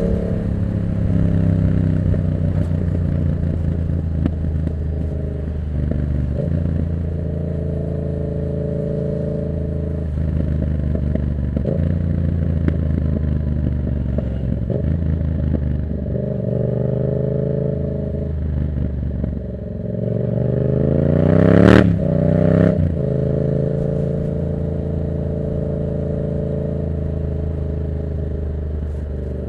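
The 2024 Yamaha MT-07's parallel-twin engine running through a Black Widow exhaust with no dB killer, at a fairly steady pace with its tone shifting a few times. About 21 seconds in it revs up sharply to a peak with a sharp crack, then drops back.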